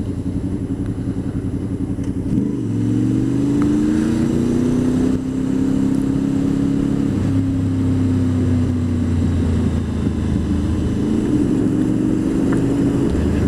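Honda VFR800 VTEC's V4 engine running under way. The note climbs as it accelerates about two seconds in, shifts at gear changes about five and seven seconds in, and rises again near the end.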